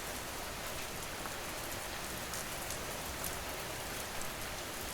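Steady ambient rain falling on a surface, an even hiss with scattered small drop taps.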